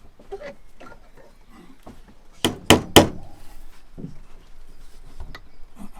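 Three quick hammer blows on wood about two and a half seconds in, driving a nail, with fainter knocks and handling sounds around them.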